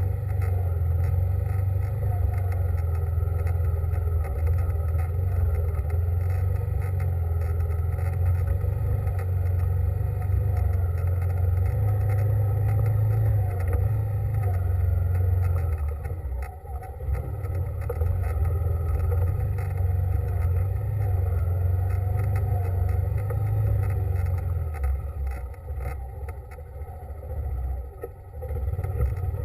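Vehicle engine running steadily under way, a low droning hum that eases off briefly about halfway through and again near the end.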